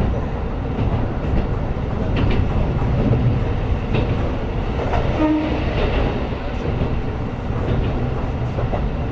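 KiHa 125 diesel railcar running along the line: a steady drone of engine and wheels on the rails, with scattered light clicks from the track.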